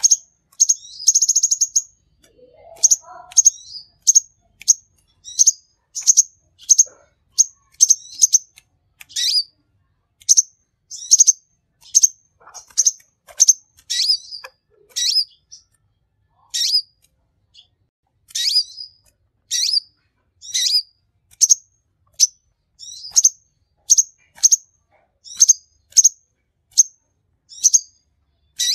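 A sunbird ('king konin' in Indonesian bird keeping) singing hard: a long run of sharp, high chirps about one or two a second, with a quick buzzy trill about a second in.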